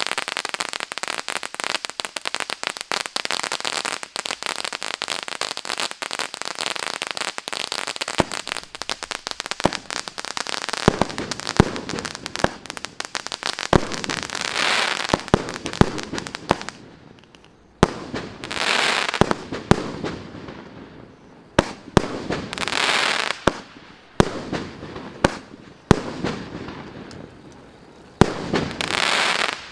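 Maxsem M1223 firework cake (30 mm caliber, 13 shots) firing: dense, continuous crackling and hissing for roughly the first ten seconds, then sharp single shots every second or two, several of them followed by a short burst of crackle as the stars break.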